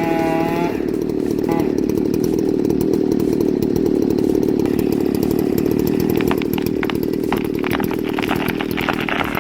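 Chainsaw at high revs, then dropping to a rougher, lower running note as it cuts into a tree trunk under load. From about six seconds in, sharp cracks of splitting wood run over the saw: the trunk is splitting vertically in a barber chair.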